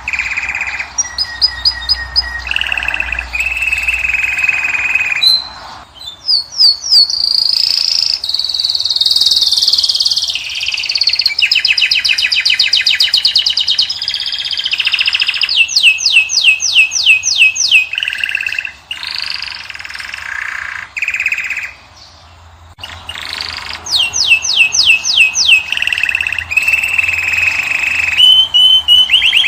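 European goldfinch and canary song, as from cage birds: fast rattling trills and clear whistled notes follow one another, with short breaks about six and twenty-two seconds in.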